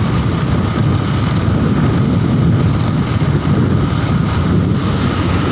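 Strong wind blasting the microphone of a motorcycle riding at speed: a loud, steady, low rumble.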